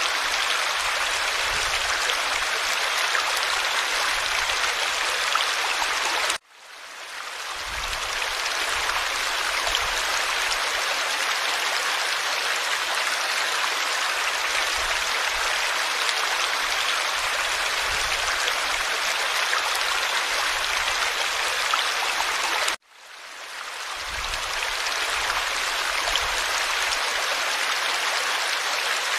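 Forest stream flowing steadily over rocks, an even rushing babble of water. Twice, about six seconds in and again about 23 seconds in, the sound cuts out suddenly and fades back up over a couple of seconds.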